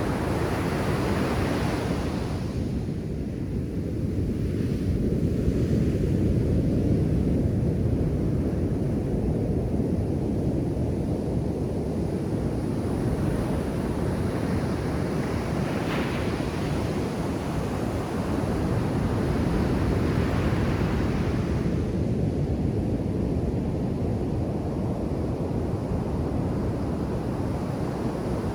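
Ocean surf breaking and washing up a sandy beach, a continuous rushing wash that swells and ebbs as the waves come in, with wind on the microphone.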